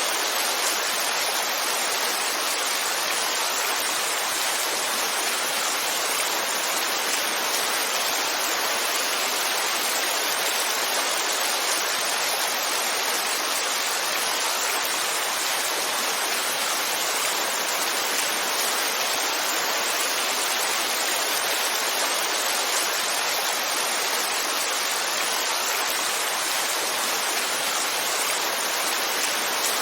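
Heavy rainfall: a steady, even hiss of dense rain with no separate drops or thunder standing out.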